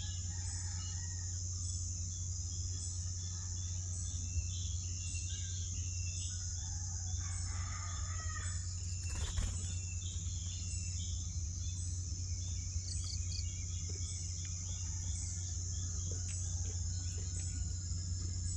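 Outdoor birds chirping and calling, scattered short calls with one longer call about 7 to 9 seconds in, over a steady high-pitched insect drone and a low hum.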